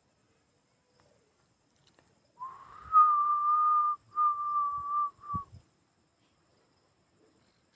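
A high, thin whistle-like tone held steady at one pitch, about a second and a half long, then again for about a second, then a brief third time.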